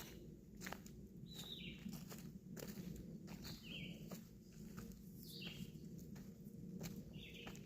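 Footsteps on a trail, faint, with a bird giving a short call that drops in pitch, four times about two seconds apart.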